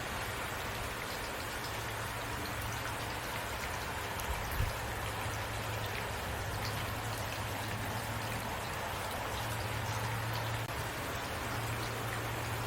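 Heavy rain falling steadily: a dense, even hiss with individual drops ticking, over a low steady rumble. There is one brief low thump about a third of the way in.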